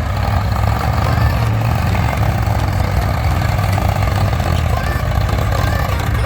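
Diesel tractor engine running steadily with a deep, even hum.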